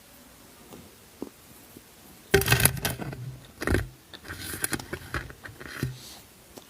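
Food packaging being handled: crinkling and clattering that starts about two seconds in, with a single knock a little past halfway, then more rustling.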